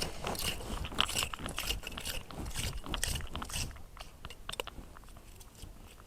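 Clam rake scraping and crunching through sand and shells in a quick run of short gritty strokes, which thin out and grow quieter after about four seconds.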